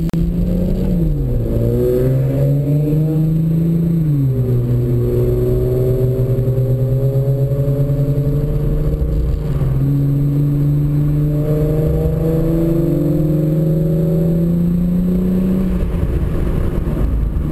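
Hyundai Genesis Coupe 3.8's V6 engine under hard acceleration, heard from inside the cabin. Its pitch drops sharply twice, about one and four seconds in, as it shifts up. It then climbs slowly for about eleven seconds and falls near the end.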